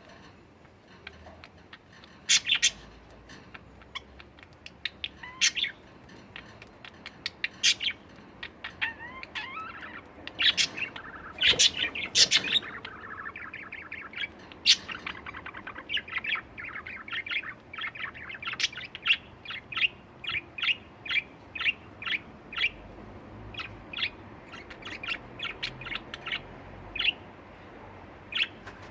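Pet budgerigars chirping: a few loud, sharp calls in the first half, then a quick run of short chirps, several a second, through the second half.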